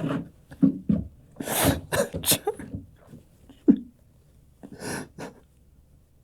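A person's short vocal outbursts: several sharp, breathy gasps or exhalations mixed with brief grunts, coming in separate bursts with pauses between them.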